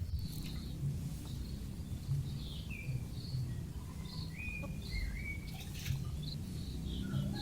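Chicks peeping in short, scattered chirps over a steady low rumble.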